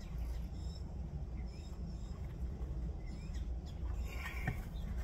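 A few faint, short bird chirps over a steady low background hum, with a light click about four and a half seconds in.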